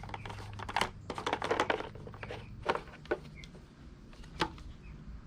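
Plastic feeder parts being handled and screwed together: a quick run of clicks and rattles in the first two seconds, then a few single sharp clicks.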